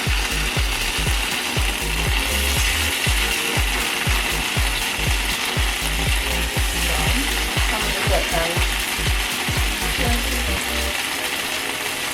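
Yam patties sizzling in a frying pan, with a rapid run of low thumps and knocks, about two to three a second, that stop shortly before the end.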